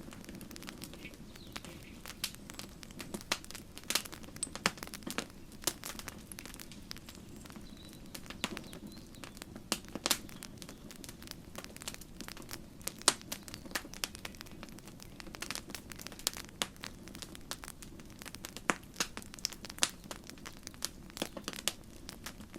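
Campfire burning, with irregular sharp crackles and pops of burning wood over a steady low rush of flame; the loudest pop comes about halfway through.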